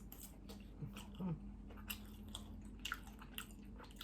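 Close-miked chewing of bacon: an irregular string of short wet mouth clicks and smacks. A brief low hum from the eater just after a second in, over a faint steady background hum.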